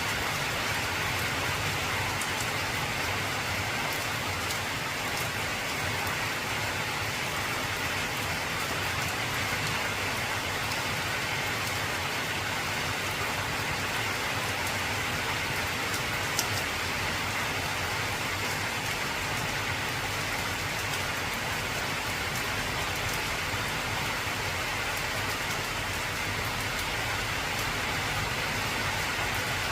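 Heavy rain falling steadily on an old corrugated zinc roof, an even hiss with scattered sharper drop ticks and one louder tap a little past halfway.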